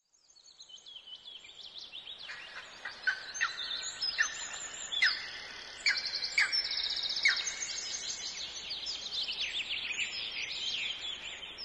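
Several birds chirping and calling over one another, with quick downward-sweeping whistles and rapid trills, fading in over the first couple of seconds.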